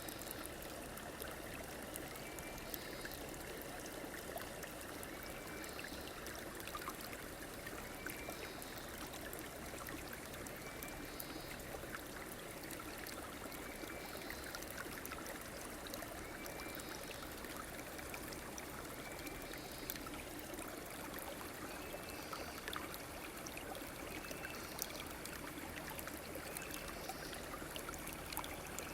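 River or stream water flowing steadily, with an even rushing and trickling. A faint short high call, from a bird or frog, repeats every two to three seconds over it.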